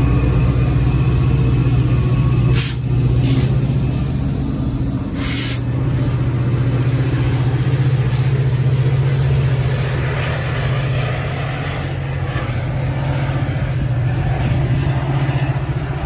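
Diesel train engine running with a steady low drone, with two short hisses of air about two and a half and five seconds in.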